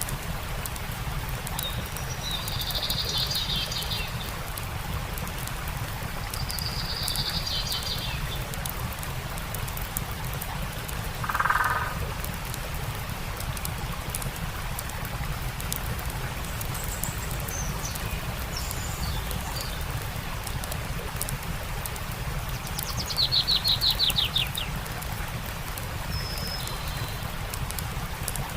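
Several birds calling at intervals, short chirps and one quick descending trill about two-thirds through, over the steady rush of a stream and faint crackling of a campfire.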